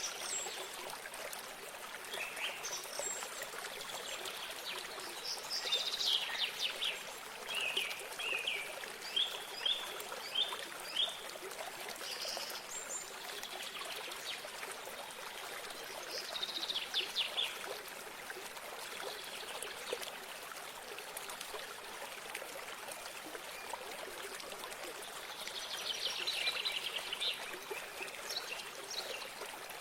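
A stream of water trickling steadily, with songbirds singing phrases of quick repeated notes every few seconds over it.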